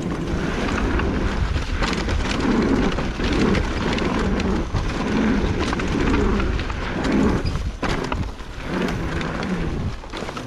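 Wind buffeting the microphone and tyres rumbling over a dirt trail while riding a pit bike downhill, a loud uneven rushing with a heavy low rumble.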